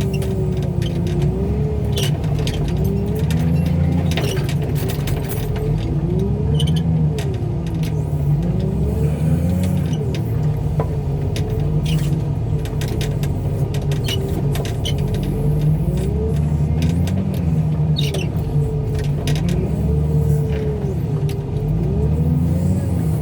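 Portable car crusher's engine running hard under hydraulic load, its pitch rising and falling every second or two as the crush plate works, with scattered sharp cracks and pops of metal giving way.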